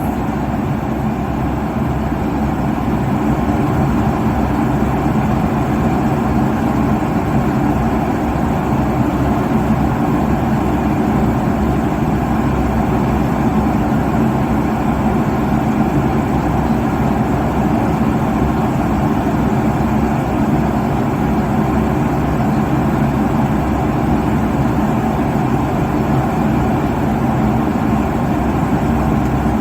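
Airliner cabin noise at cruise altitude: a steady, unchanging rush of engine and airflow noise, heaviest in the low range.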